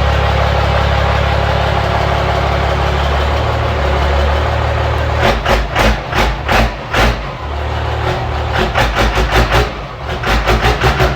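A truck engine idling steadily, then revved in a run of quick, repeated blips from about halfway through.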